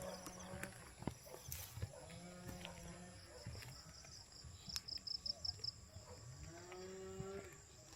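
Low, drawn-out animal calls, three of them, each about a second long, over a steady high insect drone, with a quick run of high chirps just before the middle.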